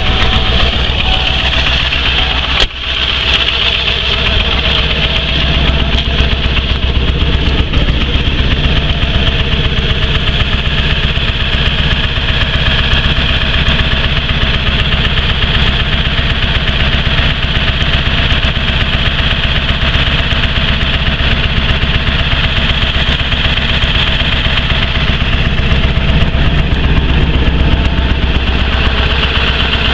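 1995 Ford F-250's 7.3 Power Stroke V8 turbodiesel idling steadily just after a cold start in sub-freezing temperatures.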